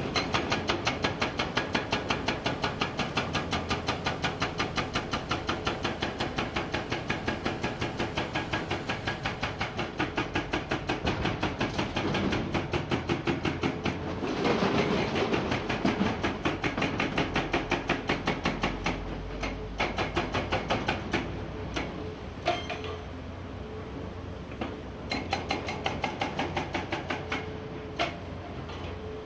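Hydraulic rock breaker on a Komatsu PC490 excavator hammering rock: a rapid, steady train of blows over the excavator's engine. About two-thirds of the way through it stops, leaving a few separate knocks, then hammers again in a short burst near the end.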